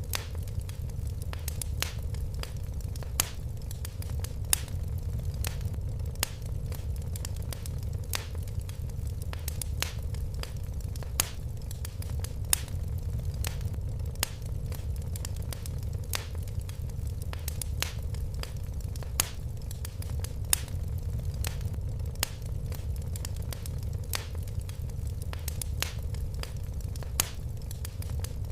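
Wood fire crackling steadily: irregular sharp pops and snaps, a few louder ones, over a low even rumble of the flames.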